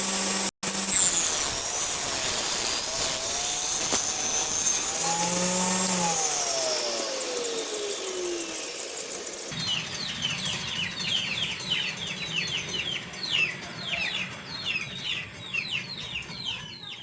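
Homemade table saw running through wood, its motor then winding down with a falling whine. Cut off abruptly, it gives way to small birds chirping repeatedly.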